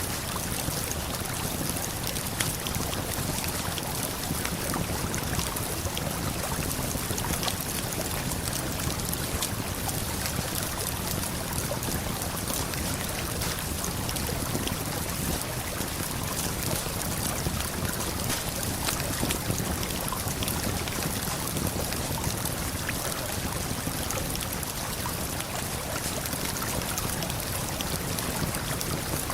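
Steady rush of a waterfall and flowing river, with the occasional sharp crackle and pop of a campfire over it.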